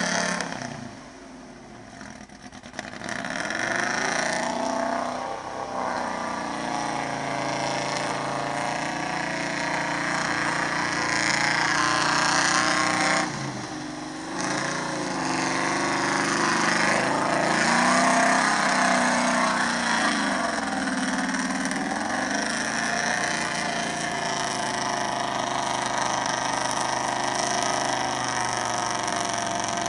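4x4 truck engine revving under load, its pitch rising and falling repeatedly, easing off briefly about a second in and again about halfway through.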